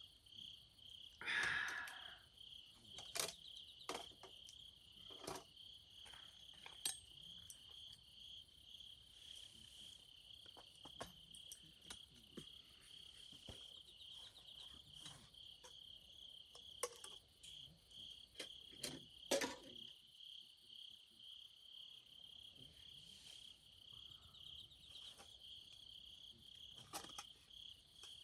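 Crickets chirping in a faint, steady, pulsing high trill, with scattered sharp snaps and clicks; a louder snap comes about two-thirds of the way through.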